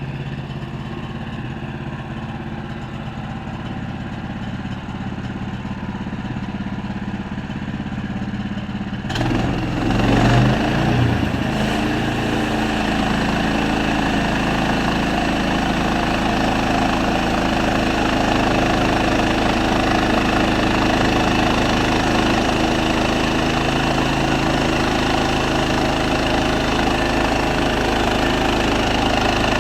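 Sawmill engine running steadily; about nine seconds in the sound abruptly grows louder and fuller and then holds that way.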